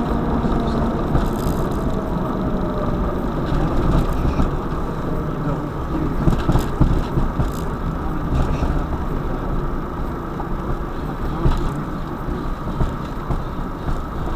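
Car driving along, with a steady low engine and road rumble.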